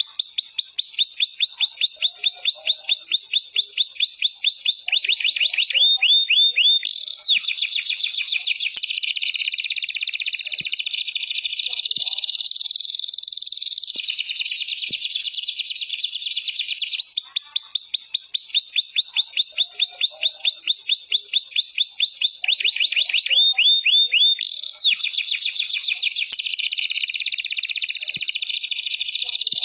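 Domestic canary singing long, rapid trills and rolls of fast repeated notes. A short run of slower, lower notes breaks in twice, and the song pattern repeats about every 17 seconds, as a looped training ('masteran') recording does.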